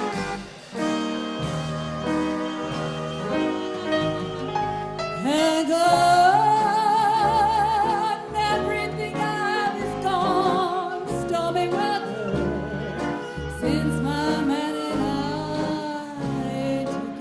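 1930s-style big dance band playing a slow number with a plodding bass line. A female vocalist comes in about five seconds in, singing long held notes with wide vibrato over the band.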